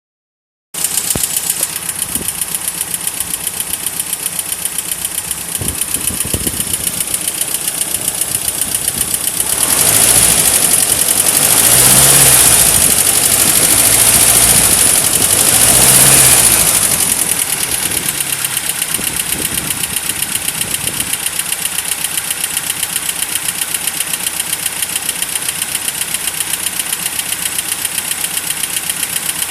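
Land Rover Series III engine idling, revved up twice around the middle and then settling back to idle. It is being run to burp trapped air out of its cooling system.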